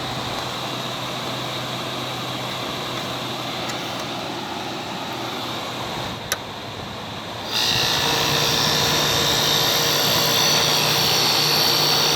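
1978 Kelvinator window air conditioner running, a steady hum under the rush of its fan. About six seconds in there is a single switch-like click, and a second later the unit gets noticeably louder and hissier as it steps up to a higher setting.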